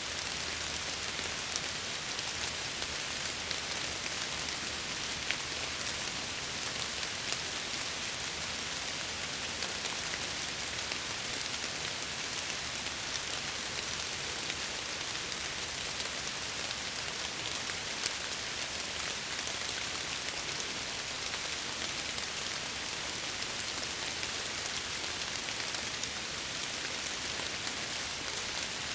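Steady rain against window glass: an even hiss with many small, sharp drop ticks scattered through it.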